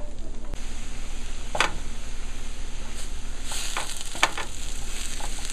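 Liquid egg substitute with chopped tomatoes and vegetarian sausage sizzling steadily in a frying pan as a wooden spoon stirs and scrapes it, with a few sharp knocks of the spoon against the pan.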